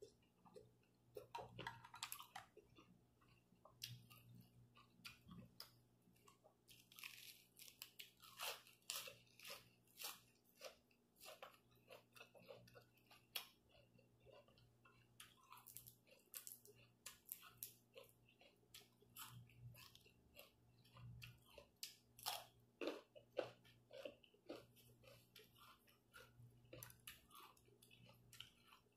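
A person chewing and biting food close to the microphone: quiet, irregular wet clicks and crunches of noodles, meat and raw leafy greens from a bowl of suki.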